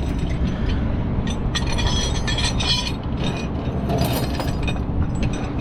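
Tow truck engine running steadily, under repeated metallic clinking and rattling of tow chains and hooks being handled while a low car is hooked up for loading.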